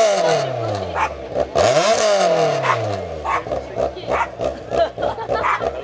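Rally car engine revs dropping as it slows for a corner, with a short blip of revs about two seconds in, then running at lower revs with a string of short sharp cracks.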